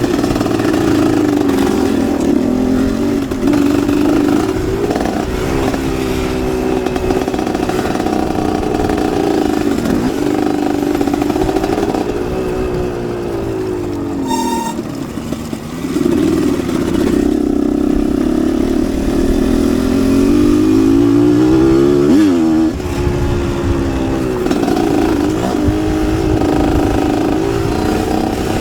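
Dirt bike engine being ridden hard, its pitch climbing and dropping repeatedly as the throttle is opened and closed through gear changes. There is a short easing-off about halfway through.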